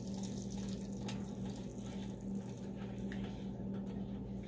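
Butter and ketchup sizzling gently in a hot wok as a silicone spatula stirs them, with a few faint ticks of the spatula. A steady low hum runs underneath.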